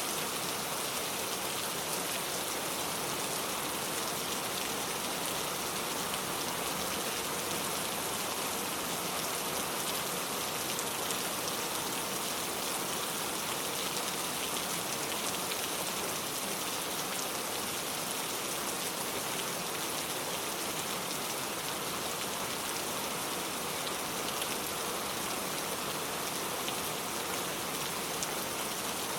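Steady rain falling on a car, a dense even patter of drops on the body.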